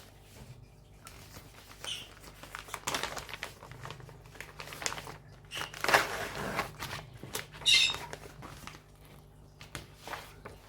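Plastic packaging crinkling and rustling as a cross stitch kit is handled, with irregular crackles and two louder ones in the second half.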